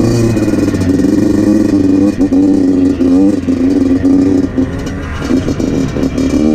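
2014 Yamaha YZ85's 85cc two-stroke single-cylinder engine running hard as the dirt bike is ridden, its note rising and falling with the throttle, with several quick climbs in pitch.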